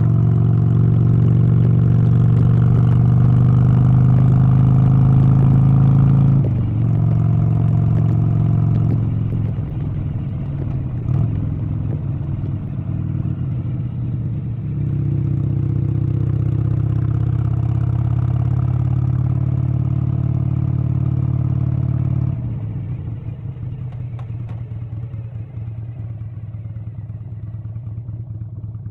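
An engine running, its note and loudness changing in steps several times, and quieter for the last several seconds.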